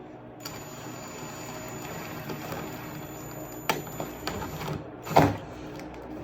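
Small mechanical clicks and rattles of hardware being worked by hand, with a thin high whine for most of the stretch, a sharp click about three and a half seconds in and a louder knock a little after five seconds.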